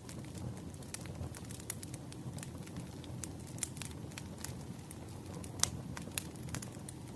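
Campfire crackling: irregular sharp pops and snaps of burning wood over a low, steady rumble of flames, with one louder pop a little after halfway through.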